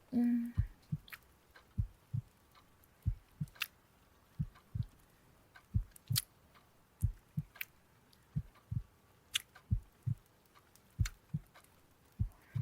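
Slow heartbeat, a double lub-dub thump about every 1.3 seconds, steady throughout, with faint scattered clicks over it.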